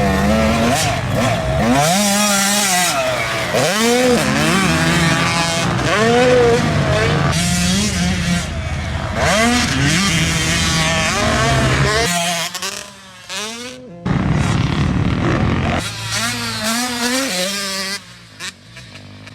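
Dirt bike engine revving hard and repeatedly, its pitch rising and falling as the rider opens and closes the throttle and shifts. It goes quieter for a couple of seconds about twelve seconds in, then comes back, and falls away near the end.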